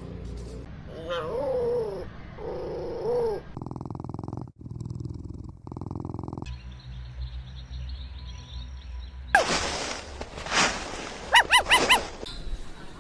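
Small-breed puppies vocalizing across a few short clips: two drawn-out wavering whines about a second in, a low buzzing stretch in the middle, and four quick high-pitched yips near the end.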